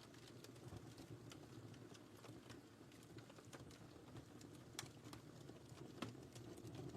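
Fire crackling in a fireplace, quiet: irregular small pops and snaps over a soft low rumble of the flames, with a sharper pop near five seconds in and another about six seconds in.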